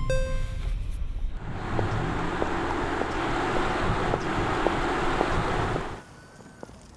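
A steady rush of road and wind noise with a low rumble, like a car driving, which cuts off suddenly near the end. A fading electronic chime rings out at the start.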